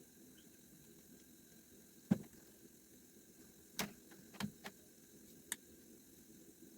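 A handful of short, sharp knocks and clicks over low room tone, the loudest about two seconds in and the rest bunched between about four and five and a half seconds in.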